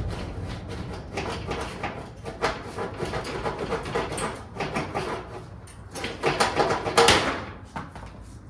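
Rapid clicking, scraping and rattling of metal parts and tools as a lawn mower wheel is worked off its axle, loudest about seven seconds in.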